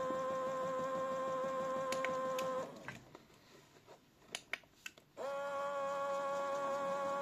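Toy Miele W1 washing machine's small drum motor whining steadily. It stops about two and a half seconds in, a few light clicks sound in the pause, and the motor starts up again about five seconds in, as in a wash cycle's drum pause.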